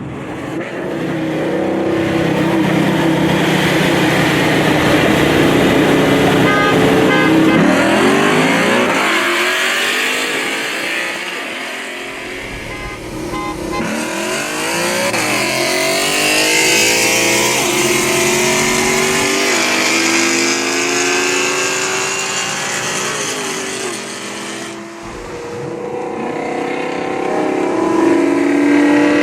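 High-performance cars accelerating hard, engines revving up through the gears with the pitch climbing and dropping at each shift. Near the end the engines settle to a steadier drone.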